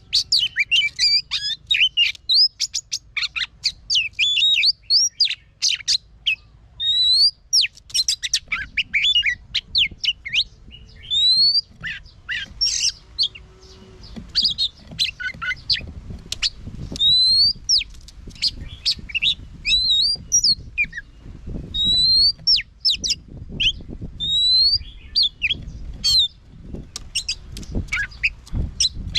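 Oriental magpie-robin singing: a fast, varied stream of whistled notes, chirps and rising slurs with hardly a pause.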